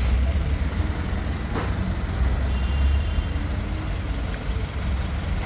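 2015 Chevy Tahoe's V8 engine idling with a steady low rumble, with one sharp click about one and a half seconds in; the engine has a random misfire.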